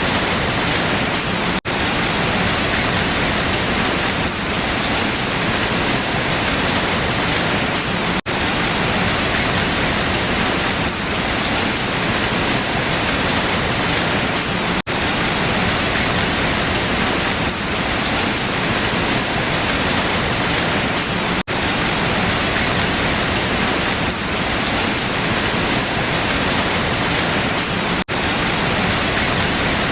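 Steady, dense rain falling on leaves, an even hiss with no let-up. About every six and a half seconds the sound drops out for an instant.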